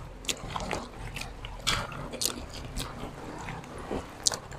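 Close-up eating sounds: people eating by hand, chewing with scattered irregular lip smacks and small clicks.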